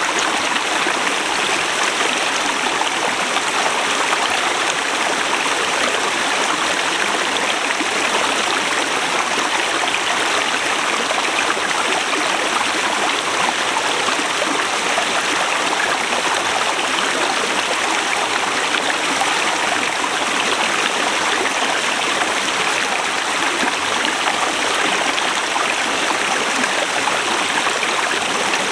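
Forest river flowing over rocks, a steady, unbroken rush of water.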